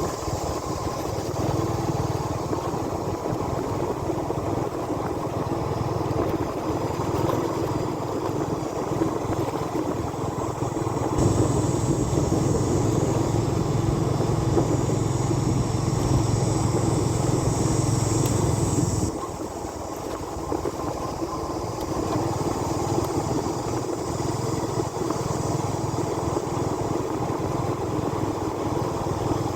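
Motorbike engine running steadily while riding, with a louder stretch under more throttle in the middle that drops back suddenly.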